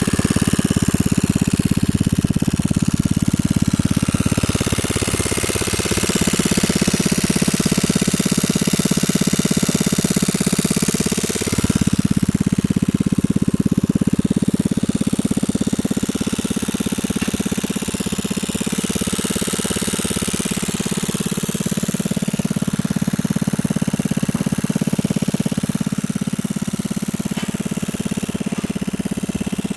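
Yamaha Jog ZR scooter engine running steadily at idle, its note shifting about five seconds in and again near twelve seconds.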